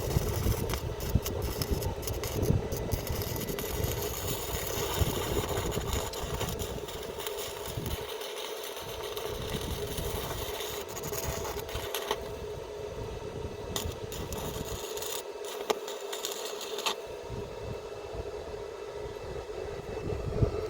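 Electric arc welder at work on iron: a steady hum with a crackling hiss of many small clicks over it, which eases twice briefly.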